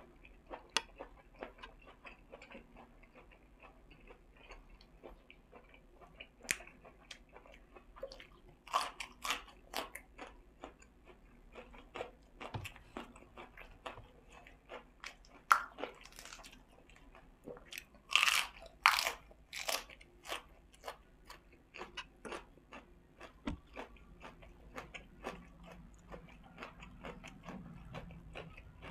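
Close-up eating sounds: wet chewing and mouth clicks on a spicy pork-uterus salad with raw vegetables. Louder crunchy bites come around nine seconds in, again around fifteen seconds, and in a cluster around eighteen to twenty seconds.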